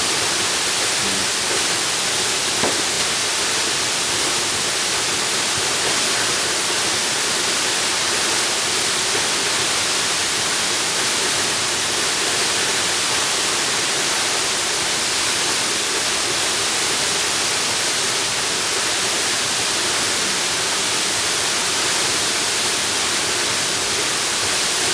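Waterfall: the steady rush of falling water, an even hiss with no change in level.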